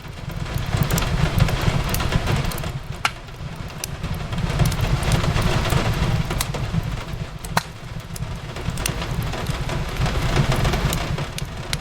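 Fireplace crackling with scattered sharp pops over a steady hiss of rain and a low rumble that swells and eases every few seconds.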